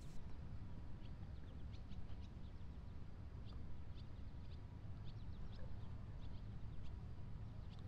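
Small birds chirping outdoors, many short high chirps scattered throughout, over a steady low rumble.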